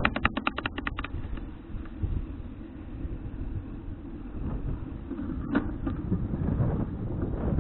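Rear freewheel of a folding bicycle ratcheting in a quick run of clicks for about a second while coasting, then the steady low rumble of riding and wind on the microphone, with one more click later.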